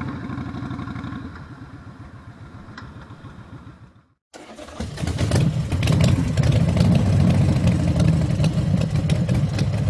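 Motorcycle engine running at idle, fading away over the first few seconds. After a short break, a motorcycle engine runs again, louder, and picks up about five seconds in.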